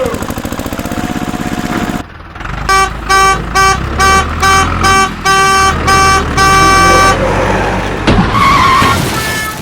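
A vehicle horn honking in short repeated blasts, about two a second, over a low engine rumble, after a couple of seconds of buzzy engine running.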